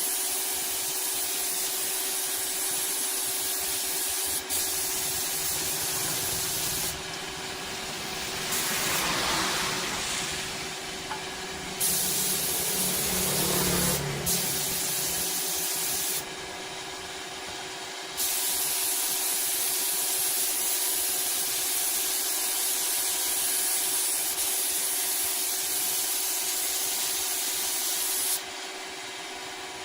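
A steady hiss that cuts out and starts again several times, over a constant machine hum, with a rougher rubbing noise swelling and fading in the middle.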